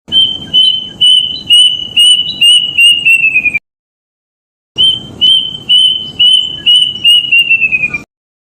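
Kedasih cuckoo calling: two phrases of about eight clear whistled notes on one pitch, each phrase quickening and falling at the end, with a second-long gap between them.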